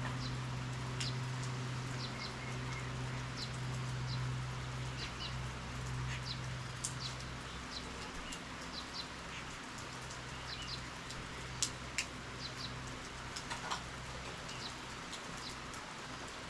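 Steady rain falling, with close drops ticking and dripping at irregular moments. A low steady hum runs underneath and fades out about halfway through.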